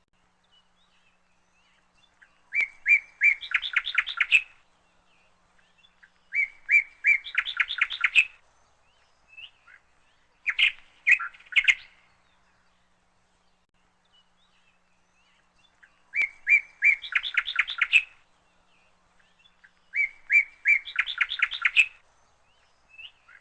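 A bird singing the same short phrase five times: a few separate chirps that run into a quick trill, each phrase about two seconds long, with pauses between.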